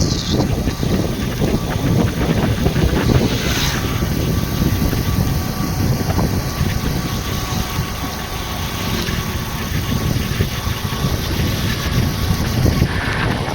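A truck engine running steadily with a low rumble.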